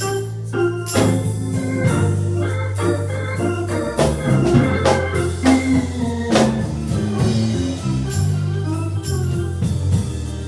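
Instrumental music led by an organ, with held low chords that change every second or two and a run of sharp percussive strikes over them.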